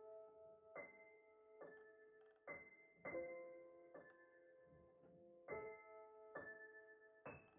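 Soft background piano music: slow chords struck about once a second, each ringing and dying away.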